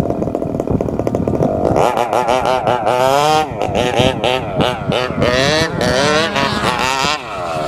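27cc Zenoah two-stroke gas engine of a large-scale RC monster truck, running steadily at first, then revved up and down again and again from about two seconds in.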